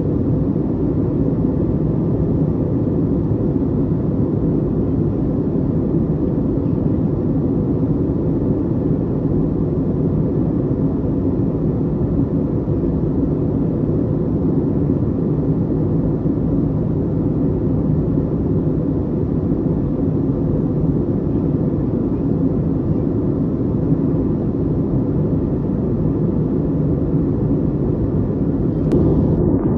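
Steady cabin drone of an Airbus airliner in flight: engine and airflow noise, deep and even, with a single click near the end.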